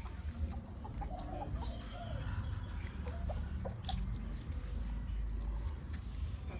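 Short, soft fowl calls, scattered through the first few seconds, over a steady low rumble.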